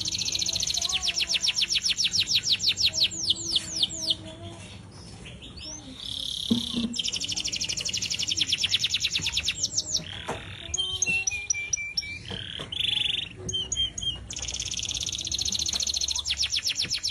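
Domestic canary in full song: long, fast trills of rapidly repeated notes alternating with varied whistled phrases, with a brief lull about four to six seconds in.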